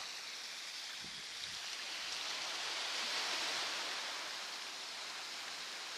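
Heavy rain pouring down in a steady hiss that swells a little around the middle.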